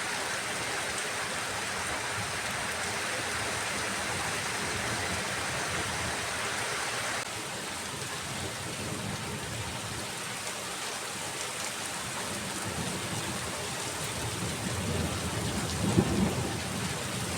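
Steady rain during a thunderstorm, with thunder rumbling near the end, loudest about a second before the end. The rain's hiss thins slightly about seven seconds in.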